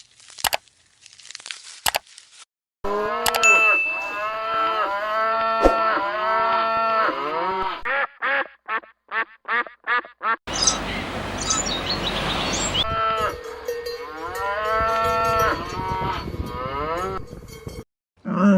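A cut-together series of farm animal calls, which a tagger takes for cattle mooing: rows of short, arched calls repeating about twice a second, then quick pulses, a couple of seconds of hiss in the middle, and more calls near the end.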